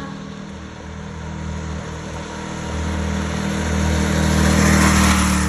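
Three-wheeled mini bike's small engine running steadily at speed, growing louder as it comes closer and peaking near the end.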